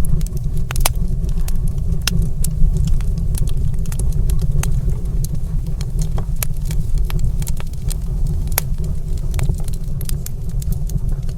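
Wood fire crackling in a stone fireplace: irregular sharp snaps and pops, several a second, over a steady low rumble.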